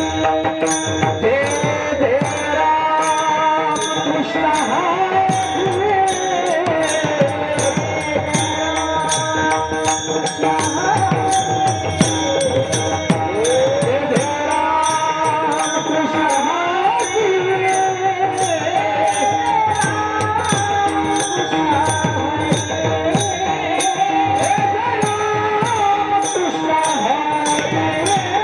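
Devotional kirtan bhajan music with no words sung: a sustained melody over drum strokes that slide down in pitch, with small hand cymbals keeping an even beat about twice a second.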